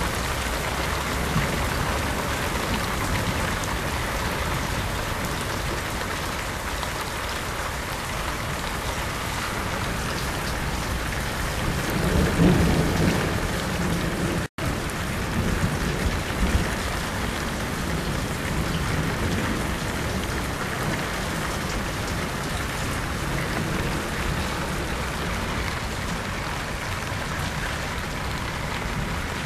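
Steady heavy rain falling on surfaces, with a roll of thunder rumbling in about twelve seconds in and a second, shorter low rumble a few seconds later.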